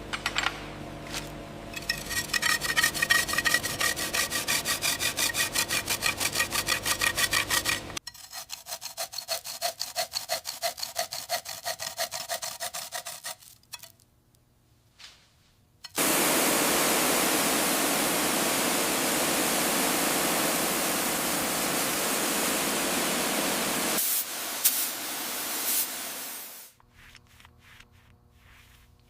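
Rhythmic back-and-forth rubbing strokes for about ten seconds, then, after a short pause, a steady hiss lasting about eight seconds.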